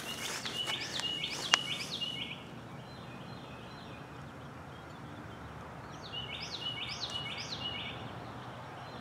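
A songbird singing two runs of quick repeated chirping notes, each about two seconds long, one near the start and another about six seconds in, over a low steady background noise. A single sharp click about a second and a half in.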